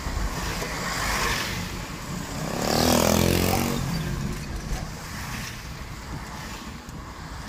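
Car driving through heavy rain, heard from inside: a steady rush of engine, tyres on the wet road and rain. The noise swells louder for about a second around three seconds in.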